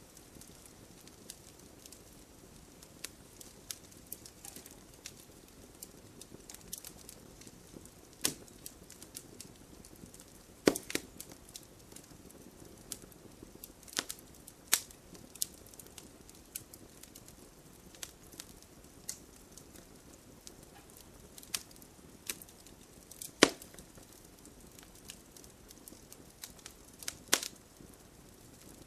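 Wood fire burning in a fireplace, a soft steady hiss under irregular crackles and sharp pops, a few of them much louder than the rest.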